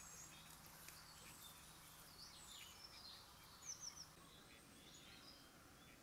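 Faint, scattered high chirps of small birds against quiet outdoor hiss, with a quick run of three notes just past the middle.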